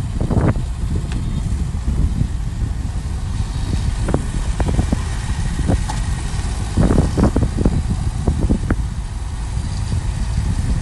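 Heavy earthmoving machinery's diesel engine running steadily, with scattered metallic knocks and clanks, a cluster of them about two-thirds of the way through.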